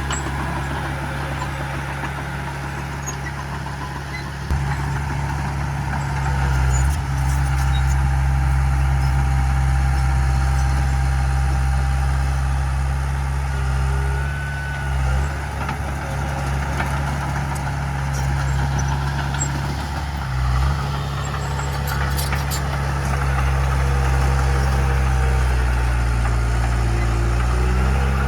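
Heavy diesel engine of earthmoving machinery running steadily. It gets louder about four seconds in, with a few brief dips in level.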